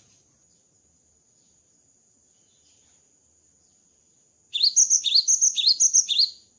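Cinereous tit (gelatik batu) singing: a quick run of four repeated two-note phrases in under two seconds, starting about four and a half seconds in, over a faint steady high tone.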